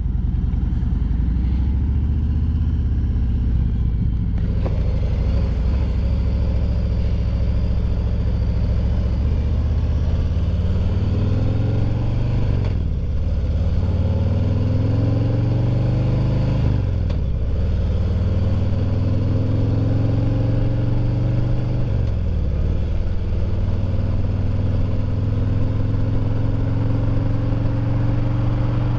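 Harley-Davidson Road Glide Limited's Milwaukee-Eight V-twin through Vance and Hines Eliminator 400 slip-on mufflers, heard from inside the rider's helmet with wind noise. The engine runs steadily at first, then pulls up through the gears: the pitch climbs and drops at three upshifts, made at about 3,000 rpm, before settling into a steady cruise near the end. The exhaust note is throaty but not very loud, with no deceleration popping.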